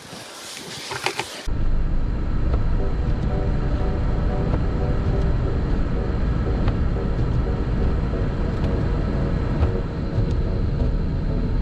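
Car driving with a steady, heavy low rumble of road and engine noise. It follows an abrupt cut about a second and a half in from a brief crackly, clicking sound.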